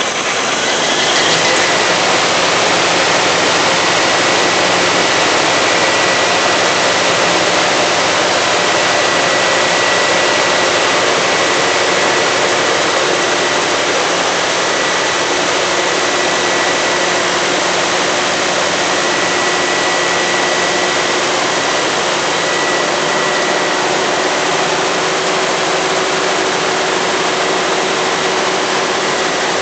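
An engine running steadily on test: a loud, even rush of noise with a faint steady high whine.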